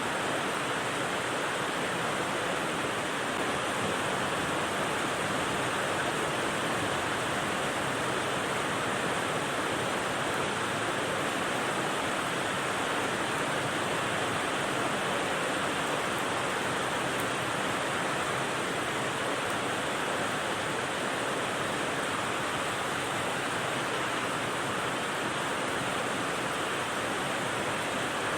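Steady rain white noise: an even, unbroken hiss with no separate drops, gusts or breaks.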